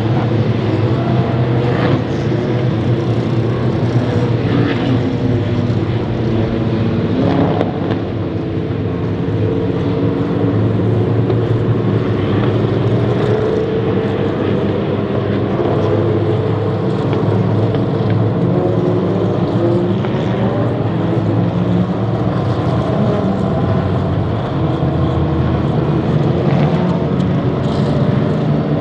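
Endurance race cars running at speed on a circuit, several engine notes overlapping without a break, their pitch rising and falling as cars pass and shift gears.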